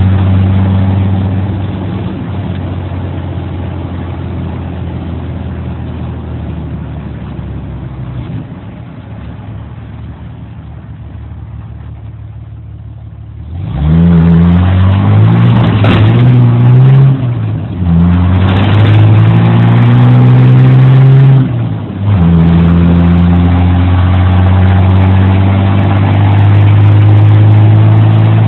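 Open exhaust of a 1992 Jeep Wrangler YJ's 4.0 inline-six, with split headers and a Y-pipe and no muffler, running at a steady moderate level that grows quieter. About halfway in it gets suddenly loud as the engine accelerates, rising in pitch, dropping back briefly twice, then holding a steady loud drone.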